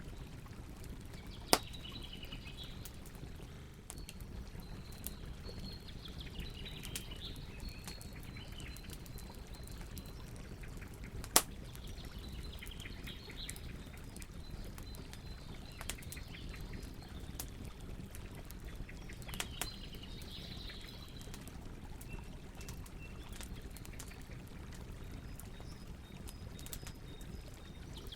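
Campfire crackling: a steady low hiss of burning wood with scattered small snaps and two sharp, louder pops, about a second and a half in and near the middle. Birds sing short phrases now and then over it.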